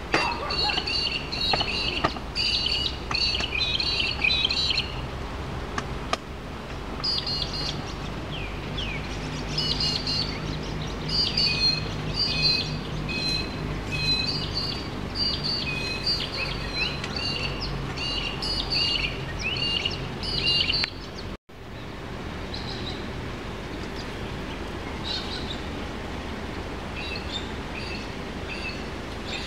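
Birds chirping and calling in the trees, many short high calls in quick series, with a brief break in all sound about two-thirds of the way through.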